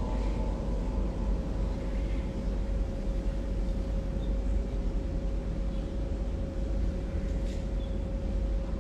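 Steady low hum and hiss of room noise with a faint, constant tone.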